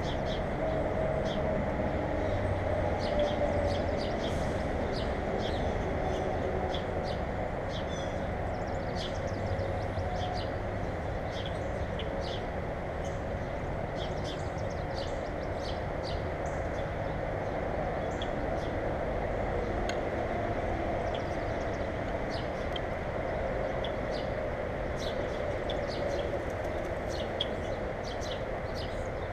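Small birds chirping at a feeder: many short high chirps scattered throughout, over a loud, steady low rumble with a faint drifting hum.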